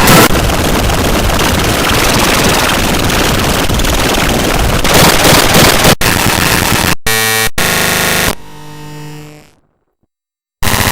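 Harsh, heavily distorted electronic noise, loud and dense, breaking into abrupt cuts and short stuttering fragments after about six seconds. A lower pitched tone then fades out, about a second of dead silence follows, and loud distorted sound cuts back in near the end.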